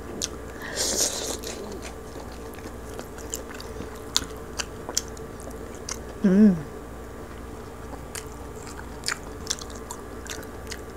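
Crispy roast pig skin and meat being torn by hand and chewed, heard as scattered crunches and sharp clicks, with a short hummed voice sound about six seconds in.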